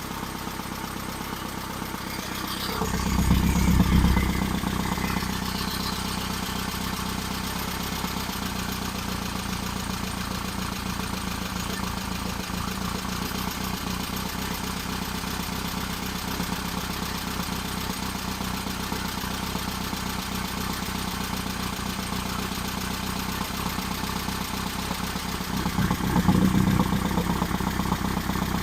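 Rebuilt engine running steadily during its camshaft break-in run. It swells louder briefly about three seconds in and again near the end, like a short rise in revs.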